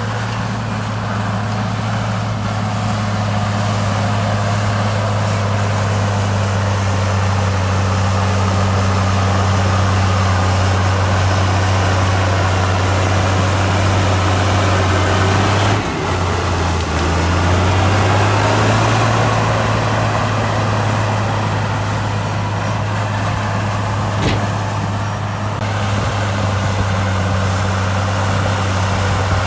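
Heavy diesel engine of an earthmoving machine running steadily; a little over halfway through its pitch drops briefly, as if under load, then climbs back.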